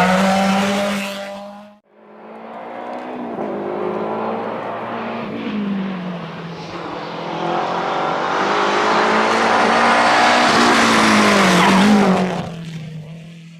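Historic rally cars at full throttle on a stage. One car runs loud and cuts off abruptly about two seconds in. A second car then approaches, its engine note rising and falling through the gears, grows loud as it passes close, and fades away near the end.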